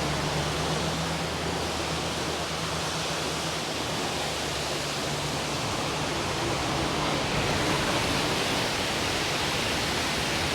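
A huge waterfall with a steady, even rush of falling water.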